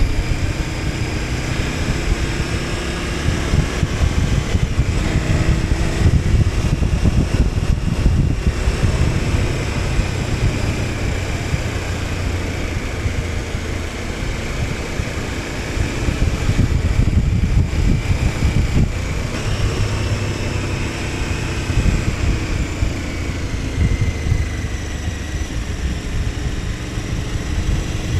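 KTM 1290 Super Adventure S's V-twin engine running under way, its pitch rising and falling as the throttle opens and closes, over a loud low rumble.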